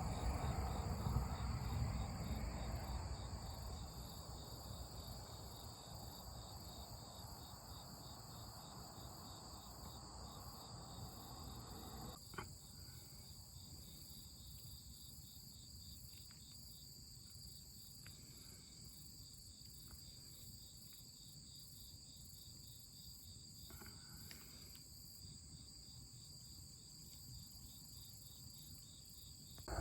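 Crickets and other insects trilling steadily in high continuous bands. Under them a broad low rushing noise fades away over the first dozen seconds, with a single click about twelve seconds in.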